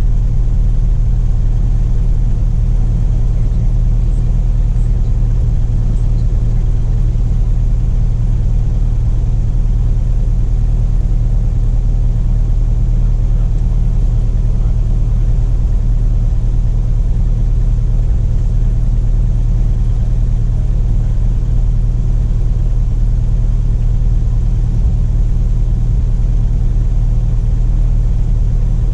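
Cessna Cardinal RG's four-cylinder Lycoming engine and propeller running at a steady, unchanging speed, heard inside the cockpit as a constant low drone.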